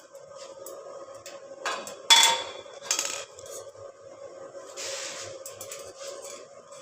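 Metal pieces clanking together with a ringing clang, the loudest about two seconds in, a few knocks either side and a short scraping rush around five seconds, over a steady hum.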